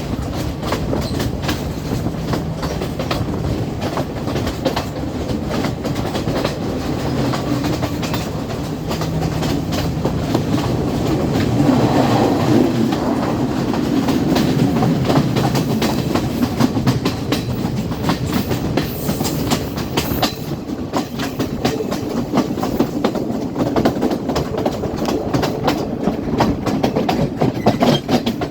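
A train running along the track: a steady rumble with the clickety-clack of wheels passing over rail joints, getting a little louder about twelve seconds in.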